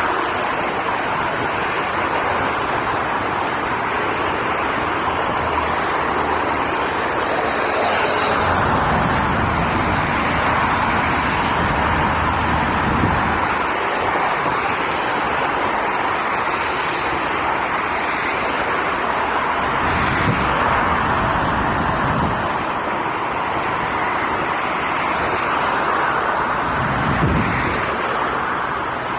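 Jet airliner noise: a steady rushing roar, with low rumbles swelling now and then.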